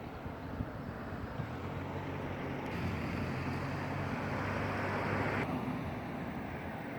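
Motor vehicle engine hum with road noise, growing louder over the first five seconds and then easing off.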